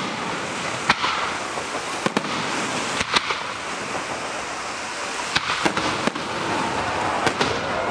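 Aerial firework shells bursting, a sharp bang every second or so, sometimes two close together, over a steady rushing background.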